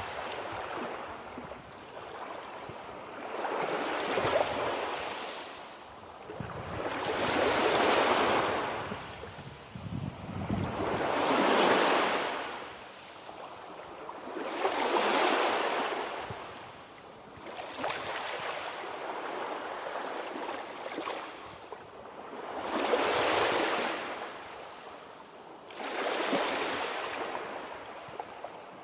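Sea waves washing onto the shore, each surge of surf swelling and falling away about every three to four seconds.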